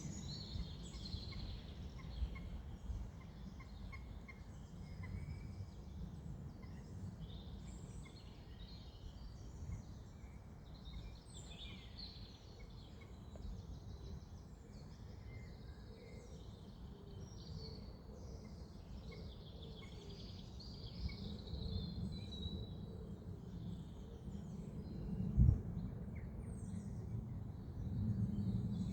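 Many small birds chirping and twittering over a steady low wind rumble, with a single thump about three-quarters of the way through.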